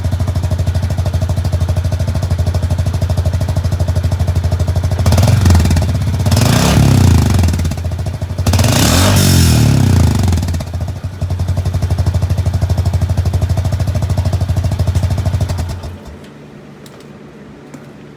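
Honda Pioneer 500 side-by-side's single-cylinder engine idling through a newly fitted aftermarket exhaust tip, blipped up twice in quick succession in the middle, then settling back to idle and shut off near the end.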